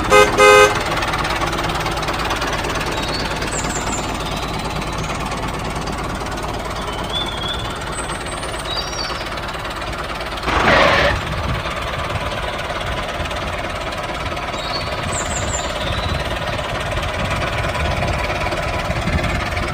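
Small engine of a handmade miniature tractor running steadily, with a brief pitched beep near the start and a louder surge lasting about a second about halfway through.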